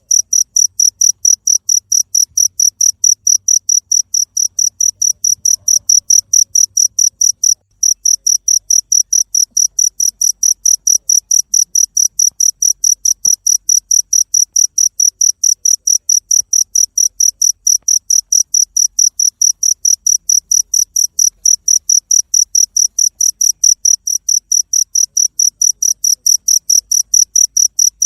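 A cricket chirping in a steady, even rhythm of high-pitched chirps, about three or four a second, with one very brief break about eight seconds in.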